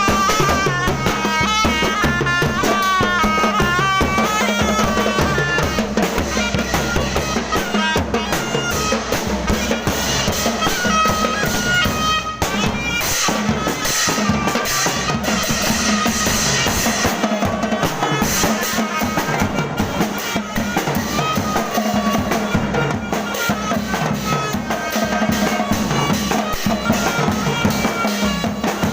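Procession band music: drums, including a bass drum, keep a steady beat under a high, wavering melody line.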